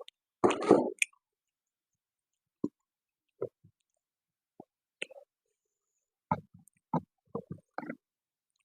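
A person eating close to the microphone: a louder bite about half a second in, then scattered wet chewing sounds and lip smacks, coming thicker near the end.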